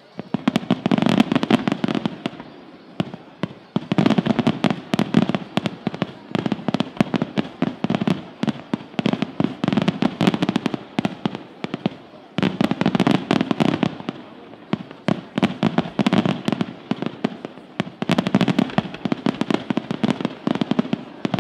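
Aerial fireworks display: salvos of shells bursting in rapid strings of sharp bangs and crackles. The bursts come in waves, with fresh salvos starting right away, about four seconds in and about twelve seconds in.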